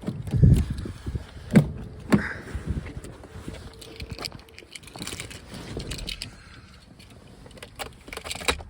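Keys jangling among scattered handling noises: a few heavy thumps in the first couple of seconds, then lighter clicks and rustles, with no engine running.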